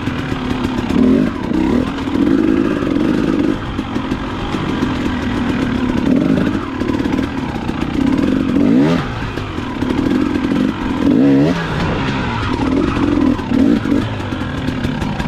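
Dirt bike engine revving in repeated bursts, rising and falling as the bike is throttled up over rocky ledges, with knocks and clatter from the rocks.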